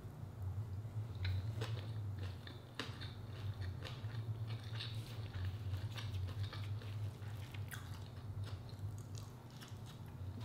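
A person chewing a mouthful of fried tilapia and rice eaten by hand, close to the microphone, with wet mouth clicks and smacks scattered throughout, over a steady low hum.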